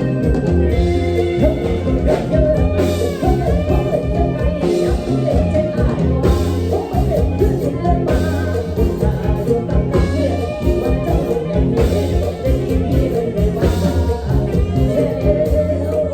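Live Isan mor lam band music in the toei style, with a heavy pulsing bass line under a melody that slides and bends in pitch.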